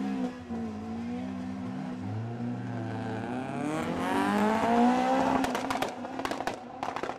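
A hatchback drag car's engine revving hard as it accelerates away down the strip, its pitch climbing and then dropping at each gear change, fading with distance. A burst of sharp cracks comes near the end.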